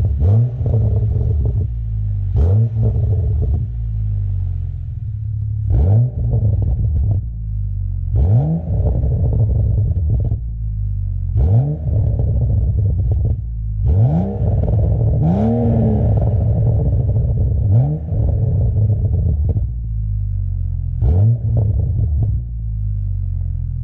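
BMW N55 turbocharged straight-six exhaust through a Ragazzon Performance rear muffler with its flap open. It idles with a low drone and is revved in about nine short throttle blips, each rising and dropping back to idle.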